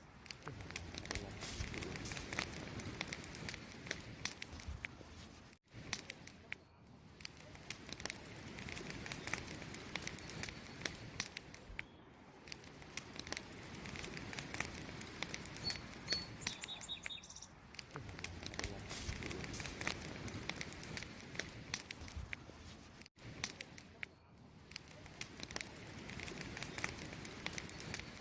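Wood campfire crackling with a constant stream of small snaps and pops, over the steady chirping of crickets. The sound cuts out for an instant twice.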